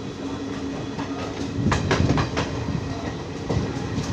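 Indian passenger train running along the track, heard from aboard a coach: a steady rumble with a low hum, and a quick run of wheel clacks over rail joints about two seconds in.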